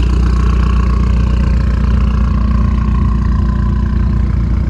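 Fiat 500 Abarth's turbocharged four-cylinder engine idling steadily through an aftermarket exhaust, a loud, deep drone.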